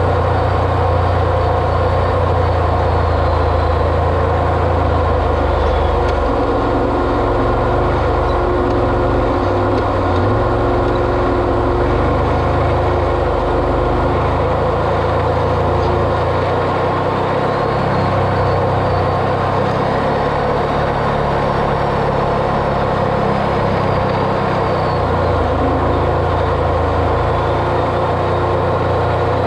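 Vehicle engine and driving noise, running steadily, with the low engine note shifting a few times as the revs change.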